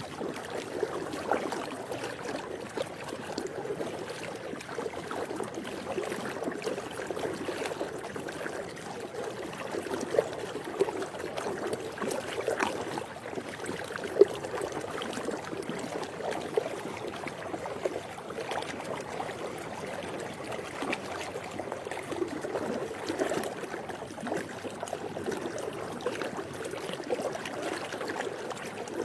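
Swimming pool water trickling and sloshing steadily, with frequent small splashes and one sharper splash about halfway through.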